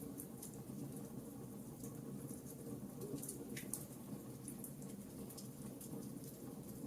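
Wood fire crackling in a fireplace: irregular small snaps and pops over a soft, steady low rush.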